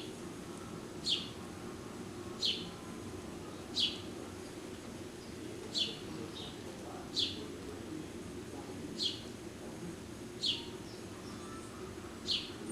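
A bird repeating one short, high call that drops sharply in pitch, nine times at roughly one-and-a-half-second intervals, over a steady low background rumble.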